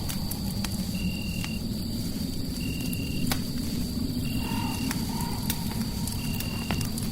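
Layered fireplace ambience: a fire crackling with scattered sharp pops over a steady low rumble of noise. A short high chirp repeats about every second and a half against a continuous high tone, with a faint warbling call near the middle.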